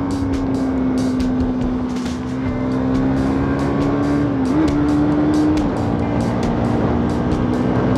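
Bajaj Pulsar NS200's single-cylinder engine running at a steady road speed, its note dipping briefly about four and a half seconds in and dropping a little lower near six seconds, with wind buffeting the rider's microphone.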